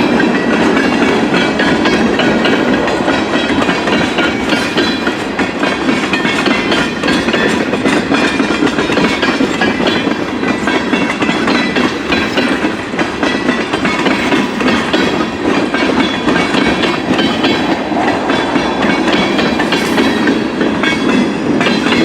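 Freight train cars rolling past close by, a steady rumble with the wheels clicking and clattering over the rail joints.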